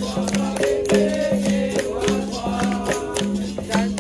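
Capoeira roda music: a berimbau plucks a repeating rhythm of held notes with its caxixi rattle, over percussion strokes from hand drums and a tambourine-like pandeiro. A group sings along in a chanting style.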